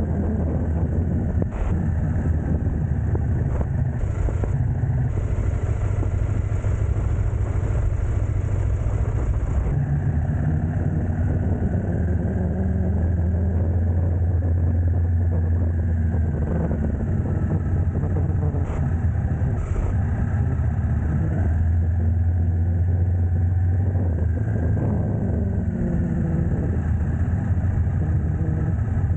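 Steady low rumble of a car in motion, engine and road noise running evenly.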